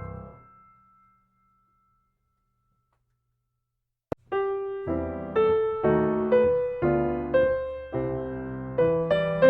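Background piano music: a held chord fades out within the first second, then about three seconds of silence, a short click, and the piano starts again with notes struck about twice a second.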